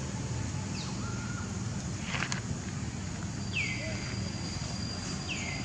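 Outdoor background with a steady low rumble, a brief rustle about two seconds in, and three short bird chirps that each drop in pitch, one midway and two close together near the end. A faint thin high whine starts about three seconds in.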